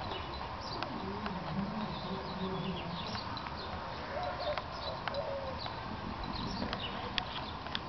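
Small birds chirping repeatedly in short calls over a steady background of outdoor noise, with a few sharp clicks scattered through.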